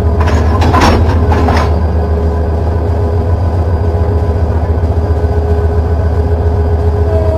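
Train running with a loud, steady low rumble and a steady hum above it, with a few sharp clicks in the first two seconds.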